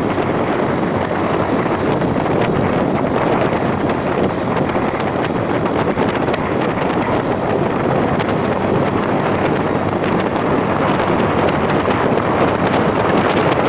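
Steady, loud wind noise buffeting the microphone, with scattered faint ticks.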